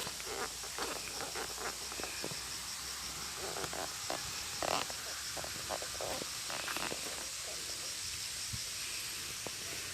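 Scattered small crackles and ticks of dry leaf litter and twigs, over a faint steady chirr of insects.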